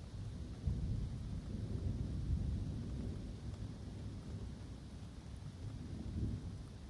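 Thunder rumbling low during a summer thunderstorm, swelling suddenly about half a second in and slowly dying away, over steady rain falling in woodland.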